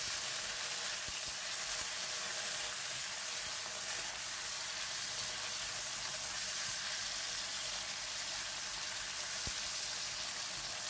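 Fish balls frying in hot garlic oil in a non-stick wok: a steady sizzling hiss while a silicone spatula stirs them, with one faint knock near the end.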